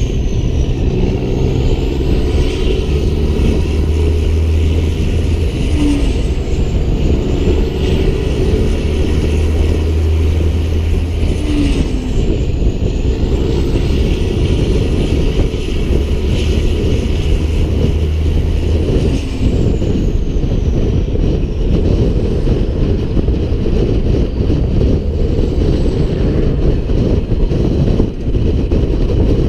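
Peterbilt 388 semi truck's diesel engine pulling a trailer loaded with an excavator down the road, a steady low drone. A faint high whine falls and rises again several times.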